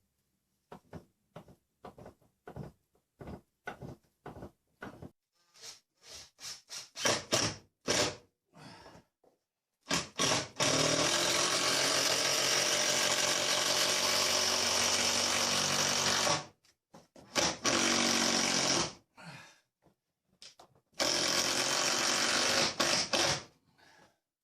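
Scattered light knocks and taps, then a power drill running in three runs, the first about six seconds long and the next two shorter, drilling into the timber of a wooden shed's roof support.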